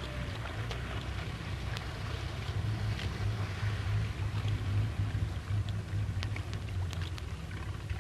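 Engine of the Miss Britain I racing motorboat running, a low pulsing drone under steady hiss, with scattered crackles of an old film soundtrack.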